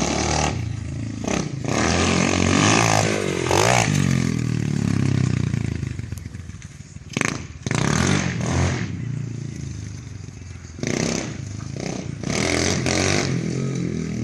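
125cc dirt bike engine revving hard in repeated bursts, its pitch rising and falling, easing off about six seconds in before several more sharp throttle blips.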